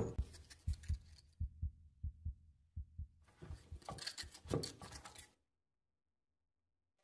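Faint heartbeat sound effect: paired low thumps, lub-dub, about one and a half beats a second, dying away after about five seconds. A patter of faint clicks runs alongside it in its second half.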